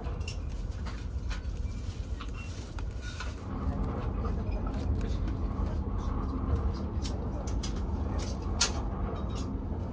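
Steady low rumble of a Hayabusa Shinkansen running at speed, heard inside the passenger cabin, growing a little louder about three and a half seconds in. Light clicks and taps of a bento box lid and tray being handled sound over it.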